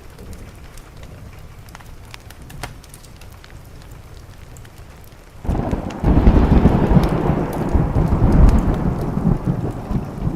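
Steady rain with small sharp crackles from a wood fire. About halfway through, a loud rumble of thunder breaks in suddenly and then slowly dies away.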